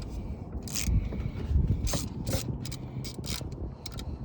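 Hand ratchet on a 19 mm socket working the PCV valve loose, clicking in short, irregular strokes over a low rumble.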